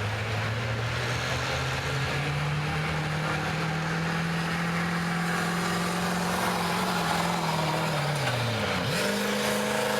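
Diesel pickup truck engine working hard under load on a pulling sled: the revs climb over the first few seconds and hold steady, then fall away sharply about eight and a half seconds in as the pull ends.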